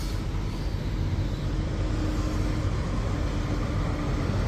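Steady low rumble of idling diesel semi trucks, with a faint steady hum riding over it.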